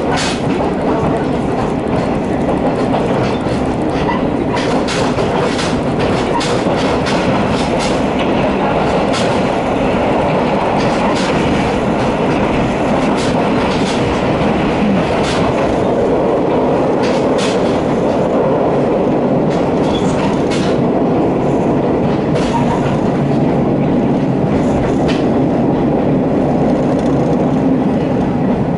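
Diesel railcar running at speed, heard from inside the passenger cabin: a steady rumble of wheels and engine with frequent clicks as the wheels pass over rail joints.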